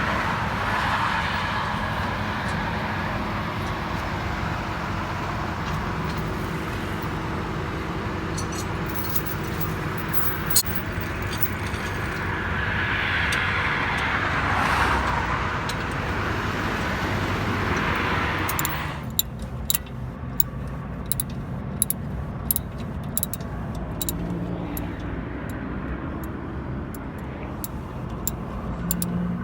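Road traffic running steadily, with one vehicle growing louder and passing about halfway through. After it the traffic is quieter, with a string of sharp clicks.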